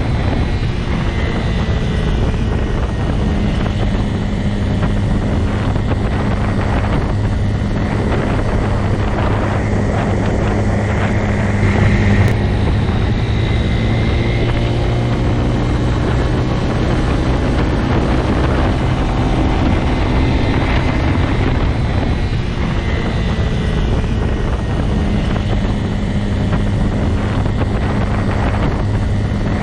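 Motorcycle engine running at a steady pace with a constant low engine note and a rush of wind noise, swelling briefly about twelve seconds in.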